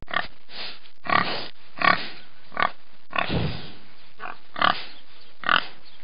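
Pig grunting over and over, a short grunt every half second to a second, with one longer grunt about three seconds in, over steady background hiss.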